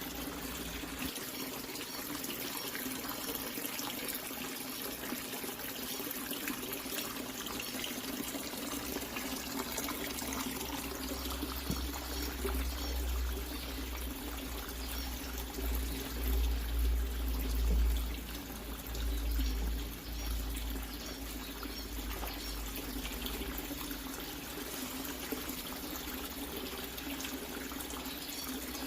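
Water running steadily and trickling into standing water, as in a tank being filled or a filter outflow. A low rumble comes in for several seconds partway through.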